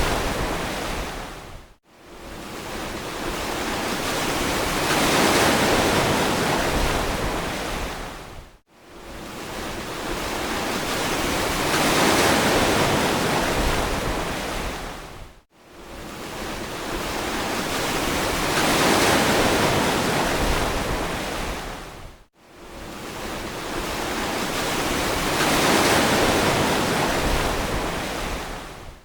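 Ocean waves surging on a beach, the surf rising and falling in regular swells about seven seconds apart. Each swell ends in a brief, abrupt drop to near silence.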